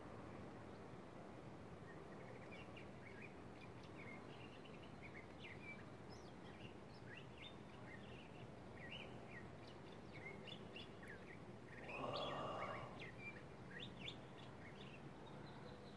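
Small birds chirping faintly, many short high chirps scattered over a steady hiss. About twelve seconds in, a louder, rougher sound lasts about a second.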